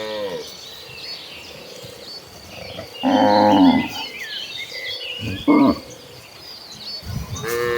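Cattle mooing from a herd: a call trailing off at the start, a long loud moo about three seconds in, a short one past the middle, and another beginning near the end.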